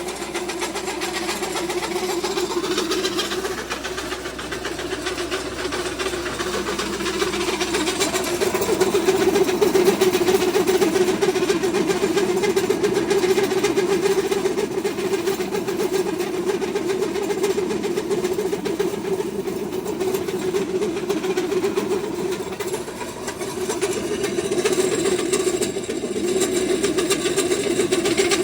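Pellet feed machine running steadily, pressing a corn and barley mix. A continuous mechanical drone carries grinding noise over it and grows a little louder about eight seconds in.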